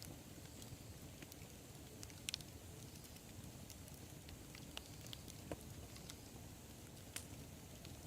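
Campfire burning with a low steady rumble and scattered sharp crackles and pops, a couple of them louder, about two seconds in and near the end.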